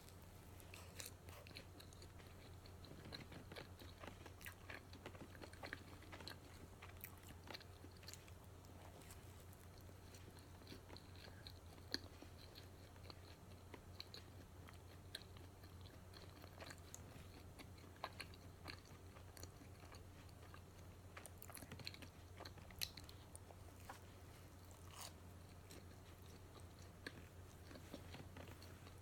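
A person chewing and biting donut, faint, with scattered small clicks and a few sharper ones.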